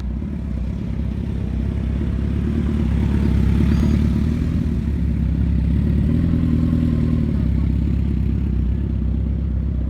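A motor vehicle engine running at low speed with a steady low rumble. It revs up slightly about three to four seconds in and again around six to seven seconds.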